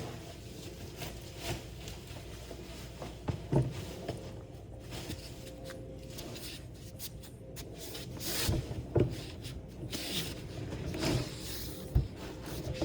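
Cane Corso puppy lapping milk from a dish, with irregular small knocks and clicks, the loudest a few seconds in, near the middle and near the end.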